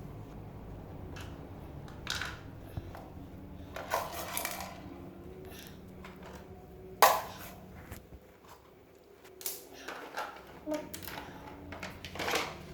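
A toy truck clattering and knocking as a small child plays with it: scattered clicks and knocks, the loudest about seven seconds in.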